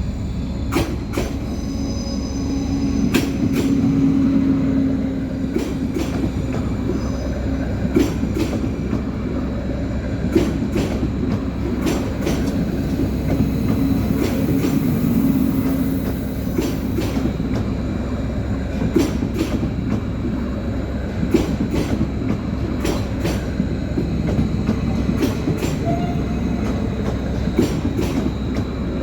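Stadler FLIRT electric multiple unit running into a station: a steady running hum with wheels clacking over rail joints and points many times, and brief high wheel squeal.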